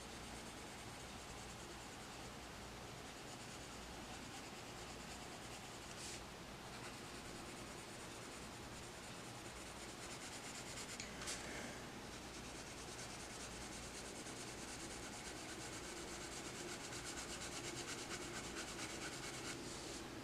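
Coloured pencil shading on paper: a steady, quiet scratchy rubbing of short back-and-forth strokes, with a couple of brief louder scrapes partway through.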